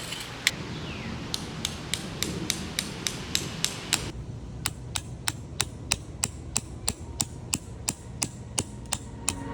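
Hammer driving tent stakes: a run of quick, evenly spaced sharp strikes, about four a second.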